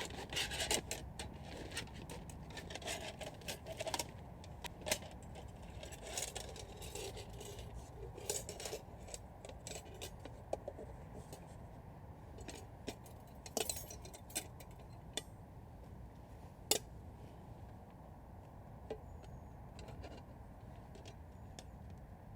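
Irregular clicks, light rattles and scrapes of camping gear being handled, busiest in the first few seconds and thinning out later, with a few sharper single clicks.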